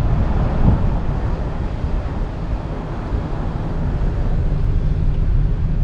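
Wind buffeting the action camera's microphone: a steady low rumble with a hiss above it.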